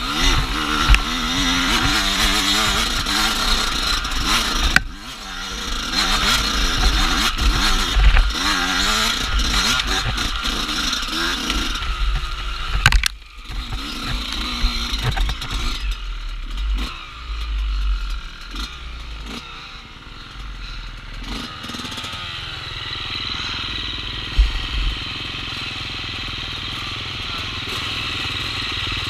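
Off-road dirt bike engine revving up and down as the bike is ridden over trail, with a sharp knock about 13 seconds in; from about 22 seconds on it settles to a steadier, quieter running note.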